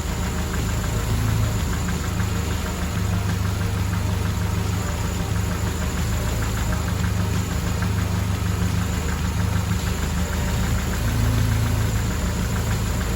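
Mercedes-Benz W124 230E's 2.3-litre four-cylinder engine idling steadily, its note swelling slightly about a second in and again near the end.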